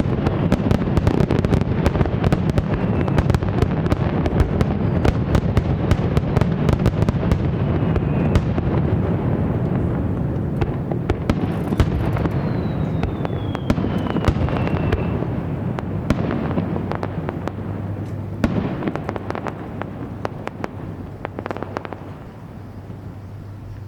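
Aerial fireworks in a dense closing barrage: rapid crackling and bangs over a heavy echoing rumble, with one falling whistle in the middle. The volley thins out about two-thirds of the way through, leaving a few last bangs and a fading rumble as this part of the show ends.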